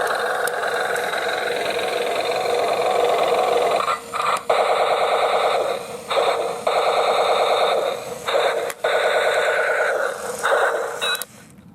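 Toy RC transforming tank playing tinny electronic battle sound effects through its small speaker while it transforms from jet back into tank. The sound drops out briefly several times and stops shortly before the end.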